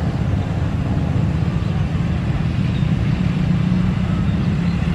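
Jet airliner engines running with a steady low rumble and a constant hum.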